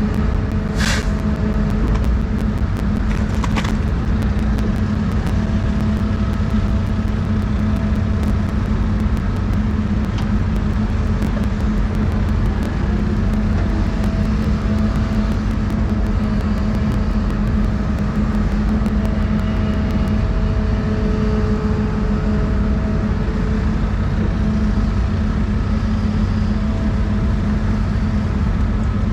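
Doosan 350 excavator's diesel engine running steadily, a constant low hum. Faint thin tones come and go over it.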